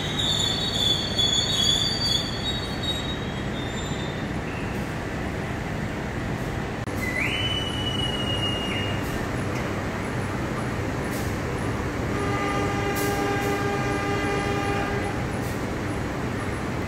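Train wheels squealing as passenger coaches roll past, fading out within the first few seconds. About seven seconds in, a single held whistle blast, then about twelve seconds in a locomotive horn sounds for about three seconds, the departure signal for the train at the platform, all over a steady low rumble of the idling train.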